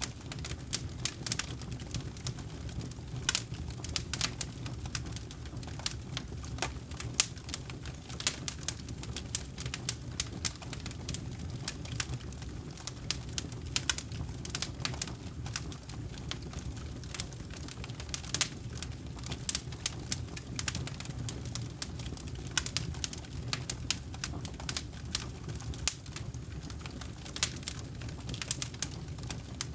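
Wood campfire crackling, with many irregular sharp pops and snaps over a steady low rumble of the flames.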